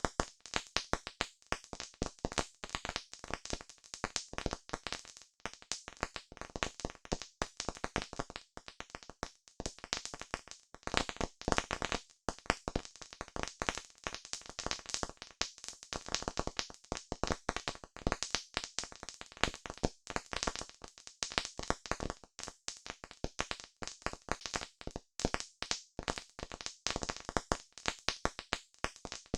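Campfire wood crackling and popping: dense, irregular sharp snaps, several a second.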